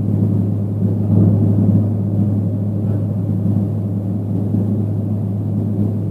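Steady drone inside a moving vehicle's cabin, dominated by one constant low hum.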